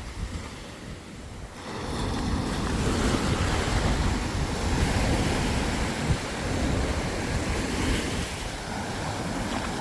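Surf washing onto a sandy beach, with wind buffeting the microphone in a low rumble. The wash is quieter for about the first second and a half, then swells and stays steady.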